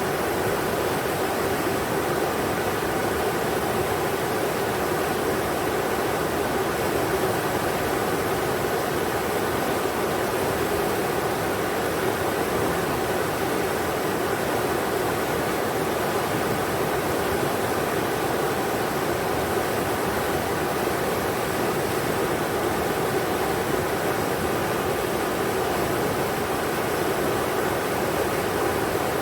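River water rushing steadily over rocks, a constant even noise with no breaks.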